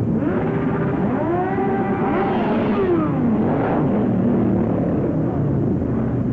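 Many motorcycles running together in a steady rumble. One engine revs up twice early on, holds, then drops back down about three and a half seconds in.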